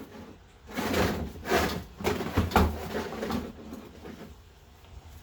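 Several rough scraping, sliding sounds from about a second in to three and a half seconds, then quieter: a coolant drain pan being pushed into place beneath the radiator.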